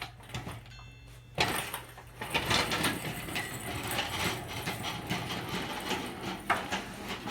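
Metal engine parts being handled during crankshaft removal: a sharp knock about a second in, then continuous clattering and scraping of metal, over a steady low hum.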